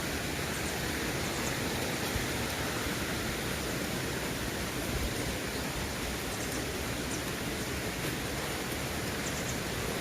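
Mountain valley stream rushing steadily over rocks, running full after rain.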